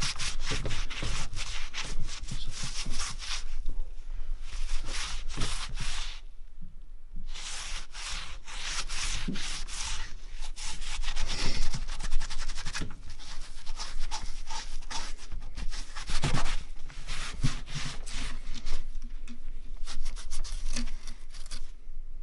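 Scrubbing on the metal surface of a rusty steamer trunk to clear the rust: rapid back-and-forth rubbing strokes in several bursts, with short pauses between them.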